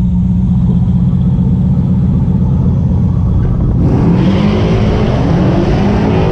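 Jeep Grand Cherokee SRT8 V8 engines idling with a deep, steady low rumble. About four seconds in, the sound turns brighter and fuller as a hiss-like layer joins the engine note.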